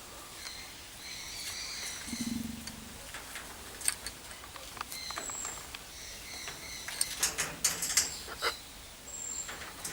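Birds calling: short high chirps and whistles, a brief low note about two seconds in, and a run of sharp clicks near the end.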